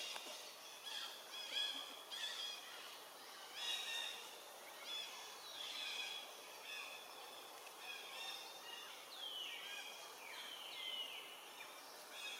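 Overlapping high-pitched animal calls: many short chirps and squeaks, with a few falling whistles about nine to eleven seconds in.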